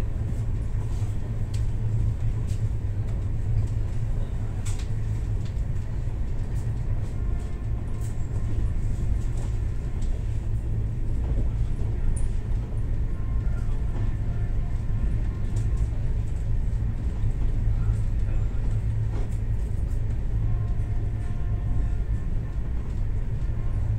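Steady low rumble of a passenger train running along the track, heard inside the coach behind a closed window, with scattered light clicks.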